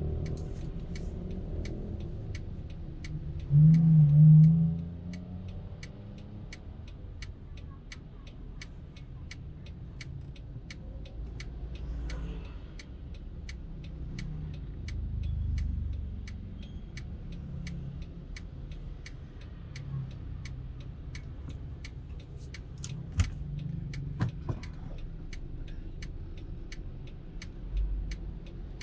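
Low engine and road rumble heard from inside a car, with a steady ticking of about two clicks a second, typical of a turn-signal indicator. A loud low hum rises and fades about four seconds in.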